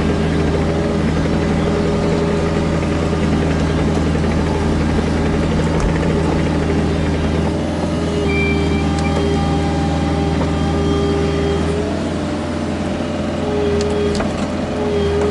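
Kubota KX121-3 mini excavator's diesel engine running steadily. From about halfway in, a hydraulic whine comes and goes at several steady pitches over the engine note.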